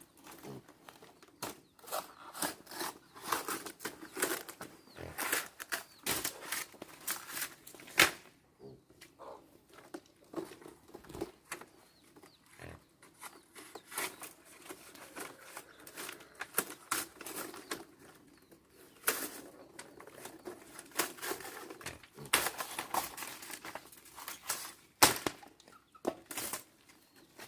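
Irregular rustling and crinkling of dry material being handled, with sharp knocks about eight seconds in and near the end.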